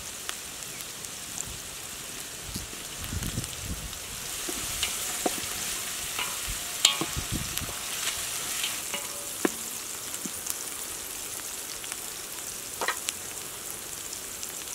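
Chopped onions and green chillies frying in hot oil in a large aluminium pot: a steady sizzle that grows a little louder about four seconds in, with scattered sharp clicks and a few low knocks.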